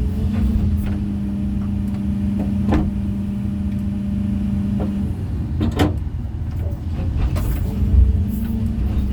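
Heavy construction machine's diesel engine running steadily, its hum dipping for a couple of seconds past the middle, with a few sharp knocks about three seconds in and again around six seconds.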